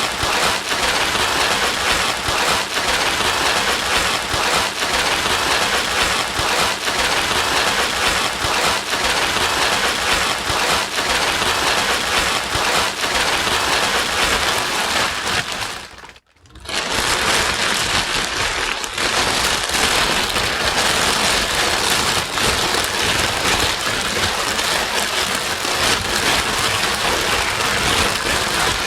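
Steady, dense white-noise hiss, like heavy rain, played to soothe a crying baby. A little past the middle it briefly fades almost to nothing and comes straight back, as at a loop point.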